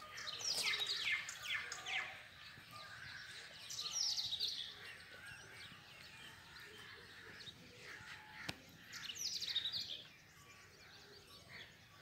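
A songbird singing three short bursts of quick, falling high notes: near the start, about four seconds in, and again near the end, over a faint outdoor background.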